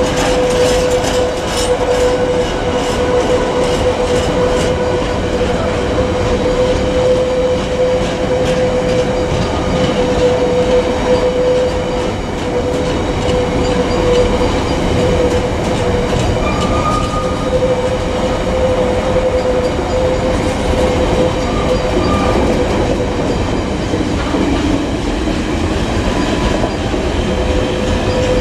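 Container freight train's flat wagons rolling past at steady speed: a constant rumble of steel wheels on rail with a steady whining tone held throughout, and clacks over rail joints that are thickest in the first few seconds.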